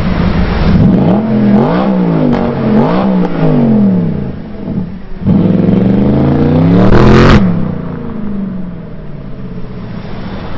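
Car engine being revved: three quick blips up and down in the first few seconds, then one long climb in revs that cuts off suddenly about seven seconds in.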